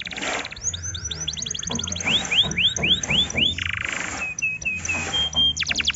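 Domestic canary singing a varied song: a fast trill, then a run of about five rising whistled notes, a brief buzzy note, short repeated chips and a held whistle, breaking into another fast trill near the end.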